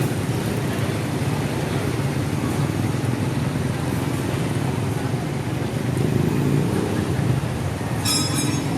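Steady street traffic noise of motor vehicles running and passing. A brief high-pitched sound comes near the end.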